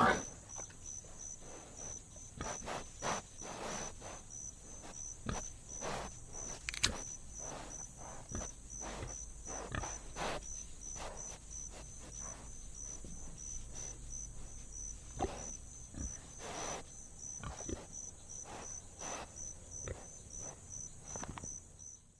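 Sounds of an animal among scattered short clicks and knocks, over a steady, rapidly pulsing high-pitched chirring.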